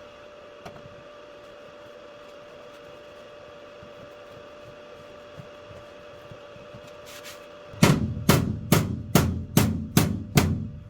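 A run of evenly spaced hammer strikes, about two or three a second, starting about 8 s in after a stretch of low steady hum. A ball peen hammer is dishing the shower pan floor down into a cone around the drain.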